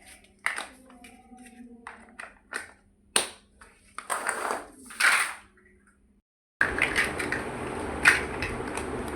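Plastic toy building bricks being handled and snapped together: sharp clicks and short rattling shuffles of pieces. The sound cuts out briefly about six seconds in and resumes over a hissier background with more clicks.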